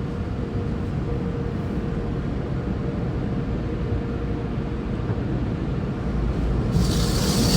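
Automatic car wash heard from inside the car: a steady low rumble with a faint hum, then about seven seconds in a loud hiss of water spray starts hitting the car.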